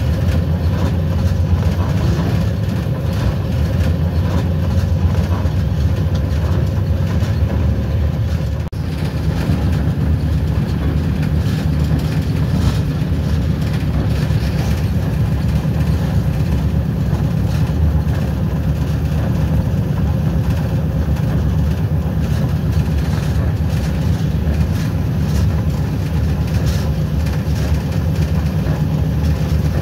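Train under way, heard from the locomotive cab: a steady, heavy low engine rumble with the noise of the run along the track.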